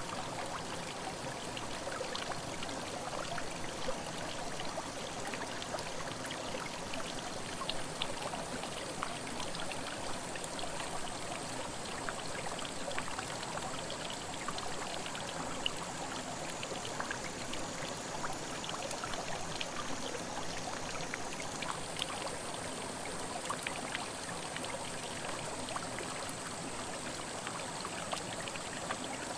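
Shallow headwater mountain stream babbling over rocks: a steady rush of water dotted with many small splashes and drips.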